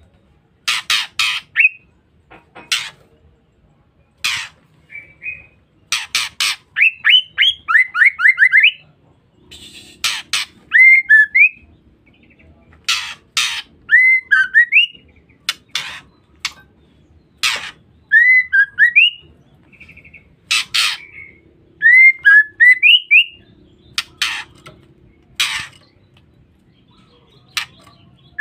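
Female white-rumped shama calling: harsh, rasping bursts, often two or three in quick succession, mixed with short whistled notes that slide up and down. This is the harsh 'ngeriwik' call of a hen shama.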